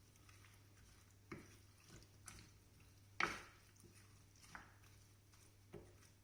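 Chicken, vegetables and stock being mixed in a casserole dish: about six soft knocks and scrapes, the loudest about three seconds in.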